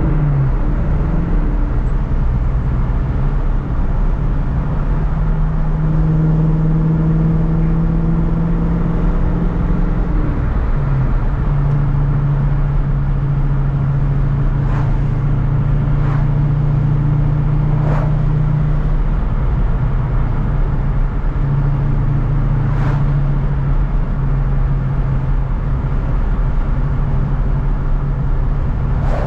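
1993 Ford Mustang Cobra's 5.0-litre V8 running as the car drives along, its note holding steady for several seconds at a time and stepping down in pitch twice, about a third of the way in and again around two-thirds in. A few faint clicks in the middle.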